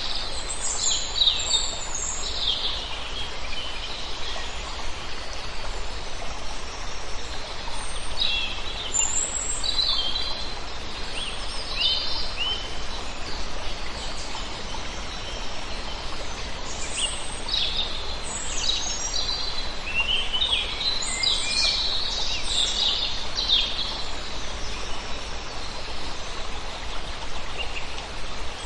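A large flock of small birds chirping, many short high calls overlapping in loose clusters, over a steady background hiss.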